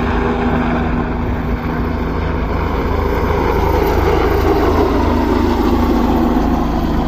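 Search and rescue helicopter running close by, its rotor up to speed, making a loud steady drone.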